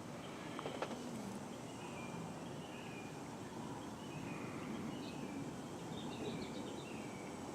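Birds chirping in short, repeated, downward-sliding notes over steady outdoor background noise.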